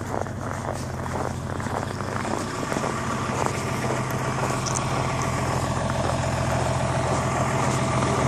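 Vehicle engine idling with a steady low hum that slowly grows louder, with a few faint footstep-like crunches in the first couple of seconds.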